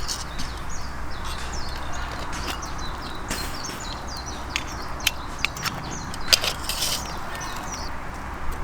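Several small birds chirping in quick short calls over woodland background noise, with a few sharp clicks and a low steady hum beneath.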